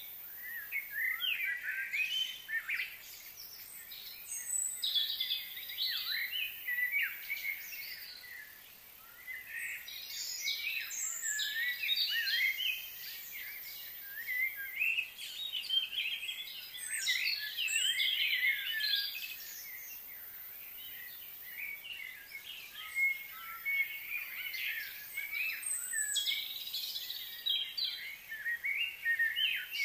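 Small birds chirping and singing in several bouts of quick, high notes that sweep up and down, with brief lulls between the bouts.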